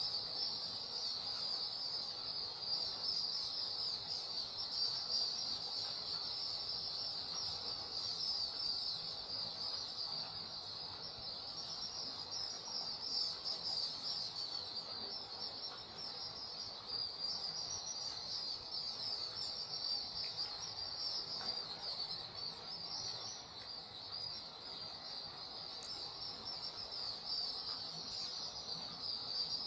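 Dense, continuous high twittering of a large flock of swiftlets gathering to enter their cave, many rapid chirps overlapping with no break.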